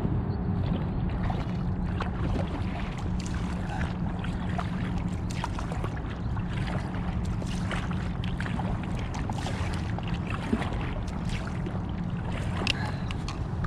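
Water splashing and dripping in small scattered bits around an inflatable kayak on the river, over a steady low rumble.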